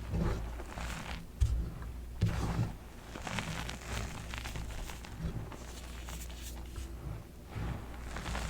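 Blocks and chunks of dyed BSN gym chalk being crushed: irregular crunching and crumbling, with a couple of sharper dull thumps about a second and a half and two seconds in.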